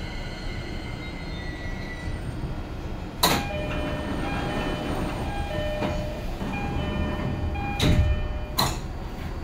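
Keio Line commuter train heard from inside the car: a steady running rumble. A sharp clack comes about three seconds in, and two more come near the end. In between there is a thin steady whine.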